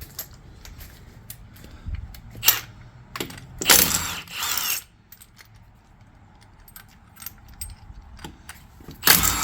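Scattered metallic clicks and clanks of hand tools and hardware being handled, with a louder clatter about four seconds in and another near the end.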